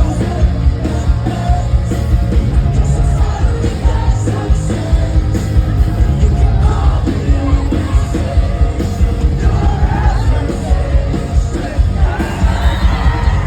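Live rock band playing loud, with a singer over a heavy, steady beat, recorded from within the crowd.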